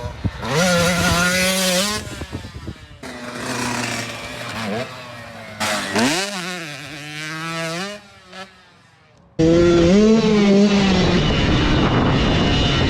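Dirt bike engine revving up and down as it rides the motocross track, the pitch climbing and dropping with the throttle. It fades almost away about eight seconds in, then a loud, fairly steady engine note starts abruptly.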